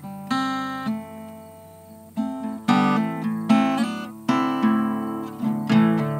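Acoustic guitar strummed and picked without singing: chords struck every half second to a second, each ringing out and fading before the next.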